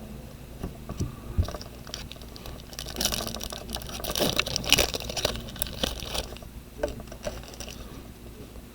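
Rustling and crinkling with scattered light clicks, heaviest from about three to six seconds in: trading-card packs and cards being handled and opened. A steady low hum runs underneath.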